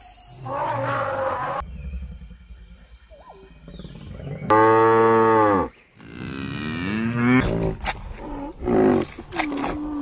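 Cows mooing: one loud, long moo about halfway through that drops in pitch as it ends, followed by more moos and shorter calls.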